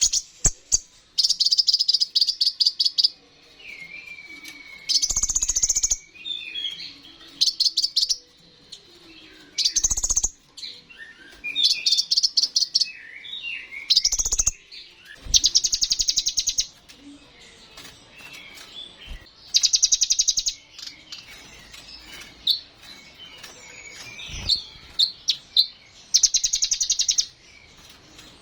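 Sunbird singing energetically: rapid, high, buzzy trills of a second or two each, repeated every few seconds, with varied short chirps and whistled notes in between.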